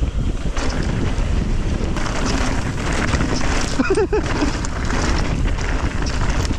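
Wind buffeting the microphone with rumbling tyre and trail noise from a mountain bike on a downhill run. There is a brief voice-like call about four seconds in.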